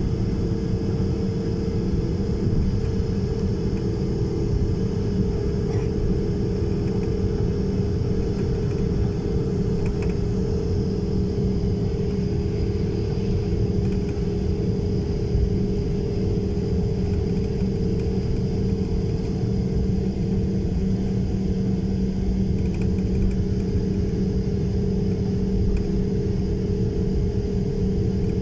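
Steady engine drone: a deep rumble with two steady humming tones, unchanging throughout.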